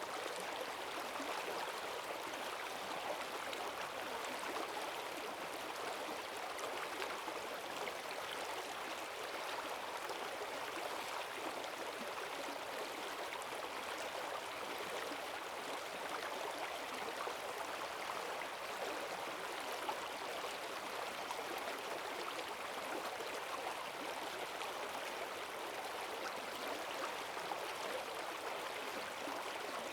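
Forest stream swollen with rainwater, rushing and gurgling steadily over its bed in strong currents.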